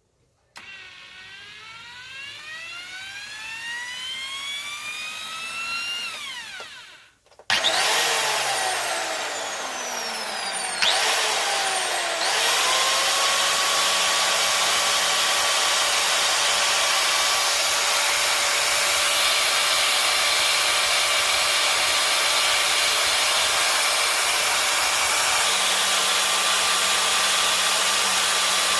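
Electric angle grinder motor being test-run after a new armature and bearings are fitted. Its whine rises in pitch over several seconds and cuts off, then the grinder starts again abruptly, settling by about twelve seconds into a steady high whine at full speed.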